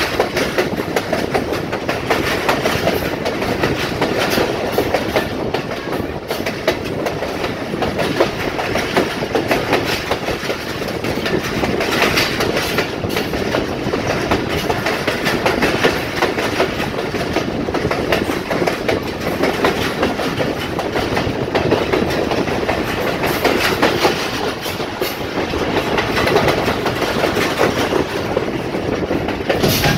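Train wheels clattering over rail joints on a branch line, a steady clickety-clack with constant rattling as the coach shakes on the uneven track.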